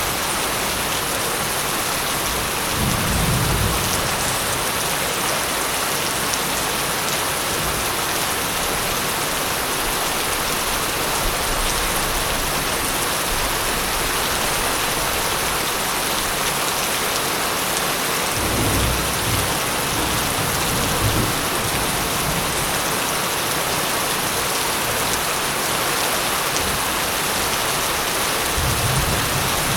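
Steady heavy rain hissing on a surface, with low rolls of thunder about three seconds in, again about two-thirds of the way through, and once more near the end.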